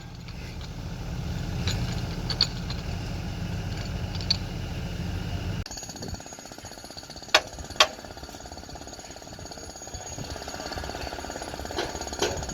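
A machine hammering rapidly, jackhammer-like; the sound changes abruptly about halfway through, followed by two sharp knocks.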